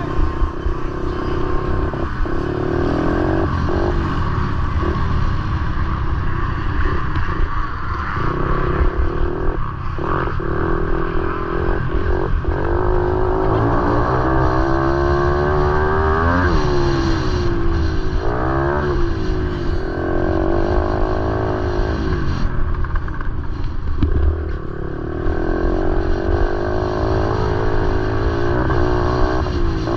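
Motorcycle engine running, its pitch rising and falling as it revs, with the changes most marked around the middle.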